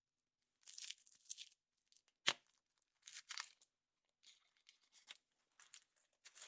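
Foil wrapper of a chocolate surprise egg being torn and crinkled open in several short rustling bursts, with one sharp snap a little over two seconds in.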